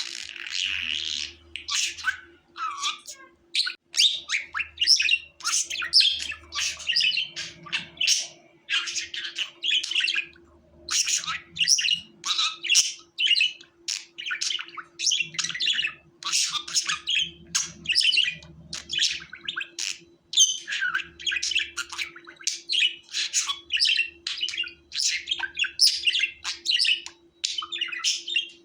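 Budgerigar chattering and warbling: a continuous run of quick high chirps and squeaky trills with only brief pauses.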